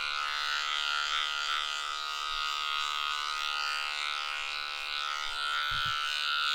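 Small electric dog grooming clippers running with a steady buzz, clipping fur down the inside of a dog's leg.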